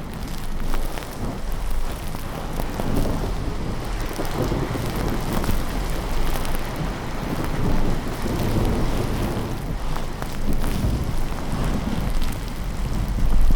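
Steady rain with low rolling rumbles of thunder that swell and fade a few times.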